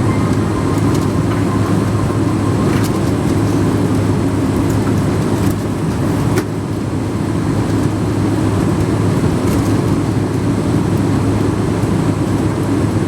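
Steady cabin rumble inside a Boeing 777-200ER with its engines running after start, a low hum under it. About six seconds in the noise drops briefly and ends in a sharp click.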